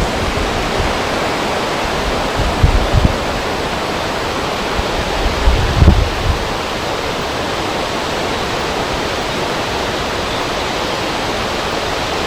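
Wind blowing over a river: a steady rushing noise, with low buffets of wind hitting the microphone about 3 and 6 seconds in.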